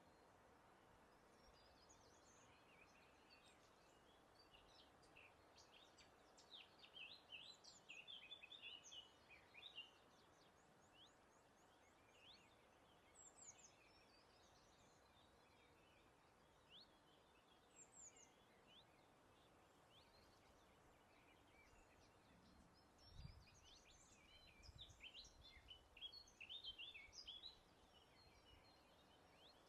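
Faint birdsong: quick high chirps and twitters, busiest in two spells, about a third of the way in and again near the end, with single calls between, over a soft steady hiss. A brief low rumble comes about three quarters of the way through.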